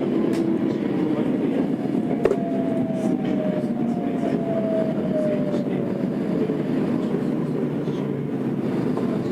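Tokyo Metro 02 series subway car heard from inside while running: the IGBT-VVVF inverter and traction motors whine with a slowly falling pitch as the train slows to brake for a station, over steady wheel-and-rail rumble. One sharp click about two seconds in.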